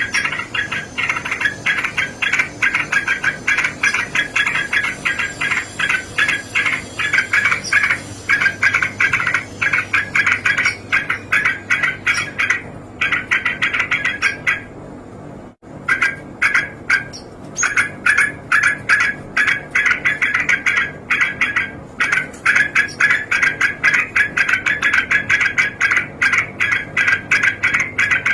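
Yellow-vented bulbul giving its repeated 'cok cok' call notes: a long rapid run of short, clipped notes, several a second, broken once by a pause of about a second midway.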